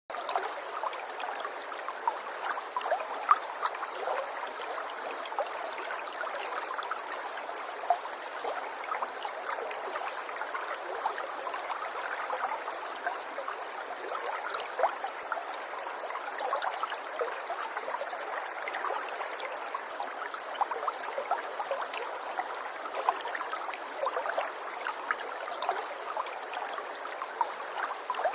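Running water babbling in a stream: a steady flow of many small splashes and gurgles, with no low rumble.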